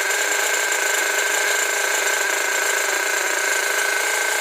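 Freshly rebuilt Force .32 nitro engine running steadily at a raised idle during its first run-in, a continuous high-pitched whine. It is running rich, spitting a lot of fuel out of the exhaust.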